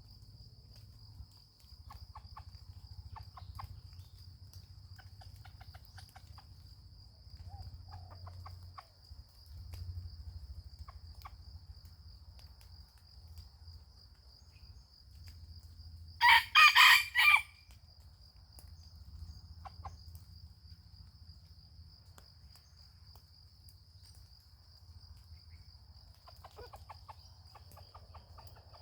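A junglefowl rooster crows once, a short crow about two-thirds of the way in, with faint clucks in between. A steady high-pitched insect buzz and a low rumble run underneath.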